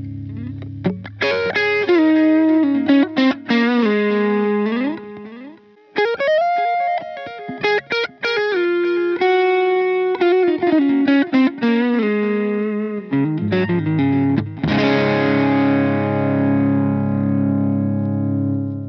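Electric guitar played through a Donner Dumbal Drive light-gain overdrive pedal: melodic single-note phrases with string bends, ending on a chord that rings out and fades near the end.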